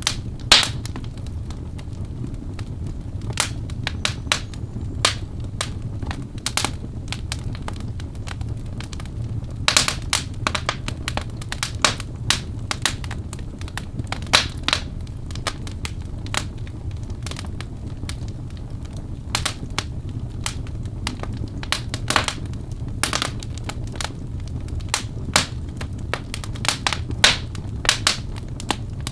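Wood fire burning in a fireplace: the logs give irregular sharp crackles and pops, over a steady low rush of the flames.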